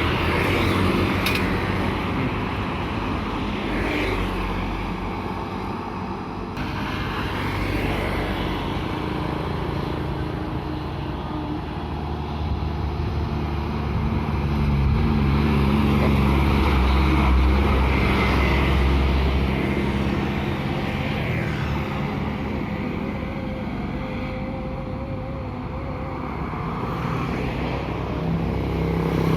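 Vehicle engines running steadily, a low drone that grows louder around the middle and then eases off.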